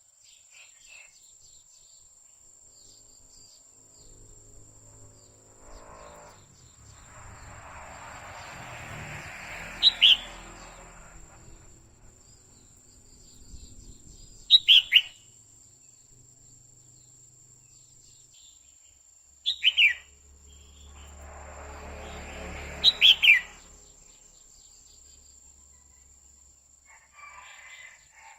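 Female red-whiskered bulbul giving four bursts of sharp, falling whistled call notes, a few seconds apart: the calls a hen uses to stir a male. Between the calls a soft hissing noise swells and fades twice, under a faint steady high-pitched whine.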